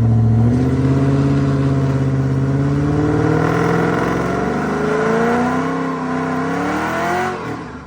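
Ford Crown Victoria's 4.6-litre V8 pulling the car along, its note rising steadily as the car speeds up over the second half, then cutting off suddenly near the end.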